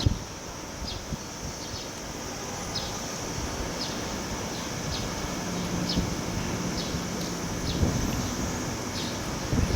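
Strong wind buffeting the microphone with a rough low rumble, over a steady high buzz and short chirps repeating about once a second. A faint low steady hum comes in midway.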